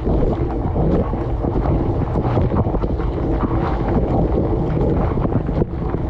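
Dishwasher mid-wash: water from the spray arms splashing steadily over the dishes and onto the camera inside the tub, over the low rumble of the wash pump.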